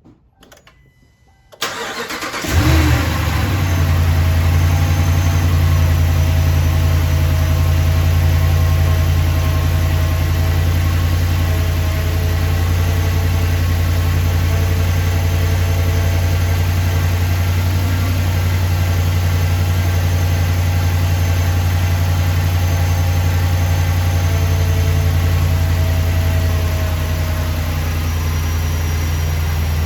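Chrysler 5.7 Hemi V8 cranking and catching about two seconds in, with a brief flare, then idling steadily with the serpentine belt off. It carries the noise that appeared after a new cam, lifters, timing chain and Melling oil pump were installed, which the owner rules out as coming from the front accessories.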